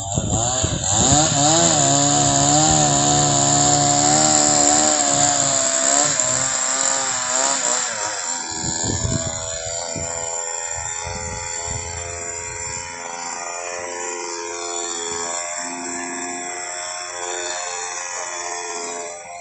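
A 45 cc two-stroke chainsaw running loud at high revs, its pitch wavering for about the first eight seconds, then running quieter and steadier for the rest.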